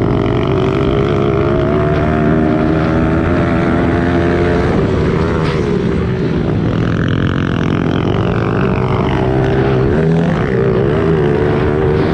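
Pit bike's small four-stroke single-cylinder engine running hard while being ridden, its pitch rising and falling with the throttle, with dips about five seconds in and again near ten seconds.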